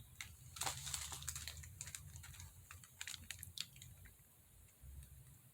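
Faint, scattered small clicks and taps, several in the first few seconds, then near silence.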